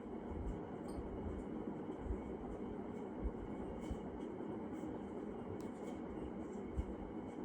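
Steady rumbling noise with irregular gusts of wind on the microphone while riding a bicycle, with scattered small clicks and rattles.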